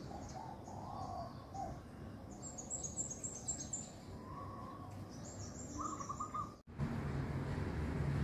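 Birds calling from a tree: short mid-pitched calls, two runs of rapid high chirps, and a short quick series of repeated notes. The audio cuts off abruptly near the end and is followed by a steady low hum.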